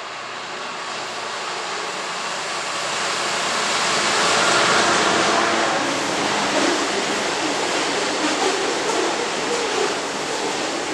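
Diesel-hauled freight train approaching and passing below: a rising rush of noise that peaks about four seconds in as the locomotive passes, then a steady run of wagons with rattling and clicking wheels on the rails.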